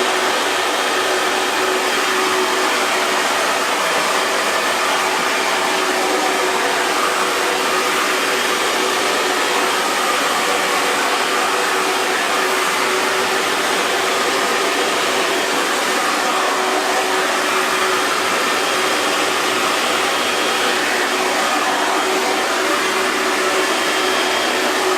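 Hair dryer running steadily: an even rush of blowing air with a faint steady motor hum underneath.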